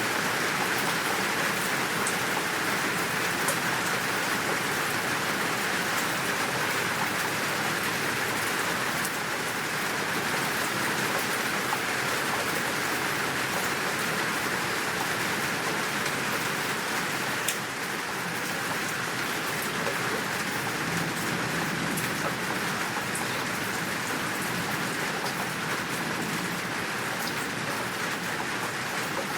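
Steady, full downpour of rain, an even hiss of falling water with scattered sharper drop ticks and one louder tick about two-thirds of the way through.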